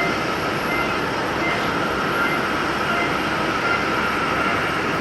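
Airliner engines running steadily: a constant roar with a steady high whine through it.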